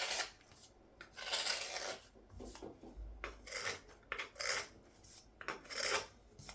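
Carving knife shaving wood in a series of short, irregular finishing cuts, about one a second, each a brief dry scrape as thin shavings come off the inside of a wooden scoop.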